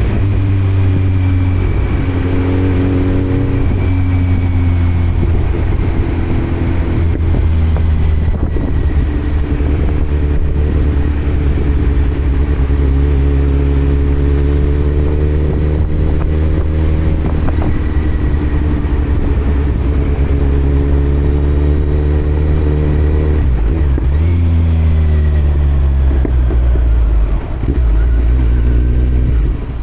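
Kawasaki Z900 inline-four engine through a Yoshimura muffler and Delkevic headers with no dB killer, under way on the road. The note drops a few seconds in, climbs slowly for a long stretch, falls away near the end as the bike slows, then picks up again.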